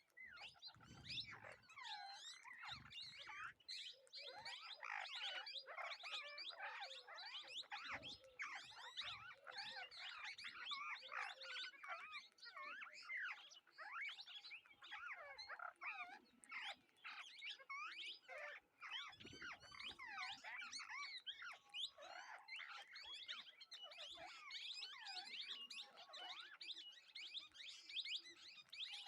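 A flock of birds chirping and chattering: many short, overlapping calls running on without a break, with a few faint low knocks.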